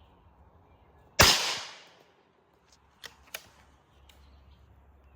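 A single shot from a light gun about a second in, sharp and loud with a short fading tail, followed about two seconds later by two faint clicks.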